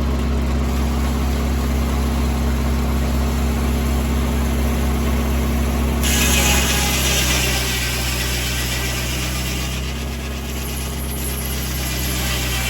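Tractor engine running steadily, driving a 1950 Corley circular sawmill. About six seconds in, a loud high noise starts suddenly as the circular saw blade cuts into a poplar log, and the engine note shifts under the load.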